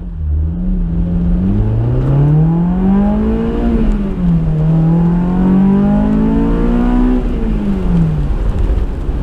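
Honda S2000's AP2 four-cylinder engine with a Tanabe touring exhaust, heard from inside the cabin, accelerating hard: the revs climb, drop sharply at a gear change about four seconds in, climb again, then fall away as the throttle is lifted near the end.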